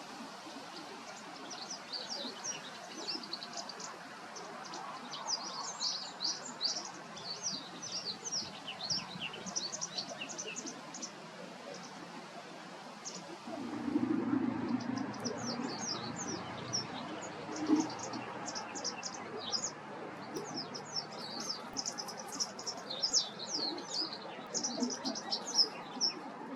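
White wagtail (Motacilla alba) twittering: long runs of quick, short, high chirps in two bouts with a pause of a few seconds in the middle. A short low rumble sounds as the second bout begins.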